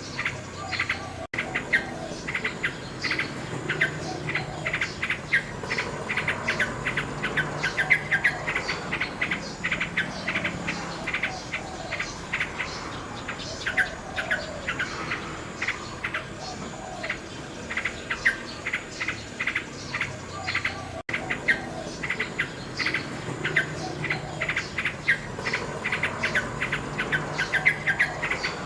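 Common nightingale singing a fast, continuous run of repeated notes and whistled phrases, with crickets chirring steadily behind it. The sound cuts out for an instant about a second in and again near the 21-second mark.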